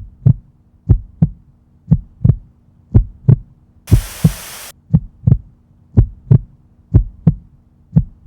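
Heartbeat sound effect: low double thumps, about one pair a second, over a steady low hum, with a short burst of hiss about four seconds in.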